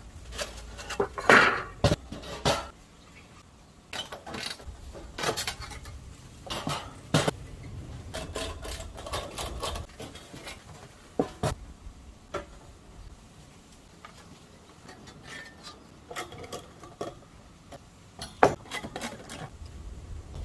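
Metal parts of a homemade fire pit, made from a square tin can and a steel rack, clinking and knocking as it is taken apart. The sharp metallic clanks come at irregular intervals, some ringing briefly, and the loudest come about a second in and near the end.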